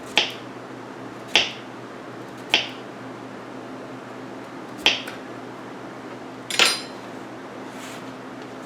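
Five sharp clinks, irregularly spaced a second or two apart, of a utensil striking a pan while squash and onions are sautéed, over a steady low hum.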